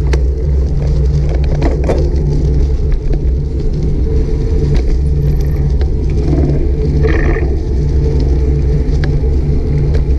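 Steady low rumble of wind and road noise on a bike-mounted action camera's microphone while cycling, with a few light clicks and a brief high-pitched tone about seven seconds in.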